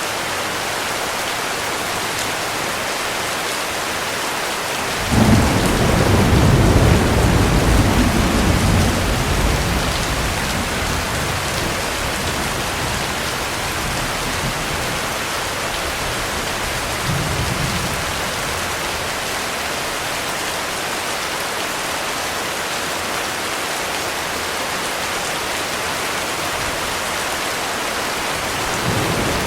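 Heavy rain falling steadily, with a thunderclap about five seconds in that breaks suddenly and rumbles for several seconds before fading. A fainter roll of thunder follows later, and another begins near the end.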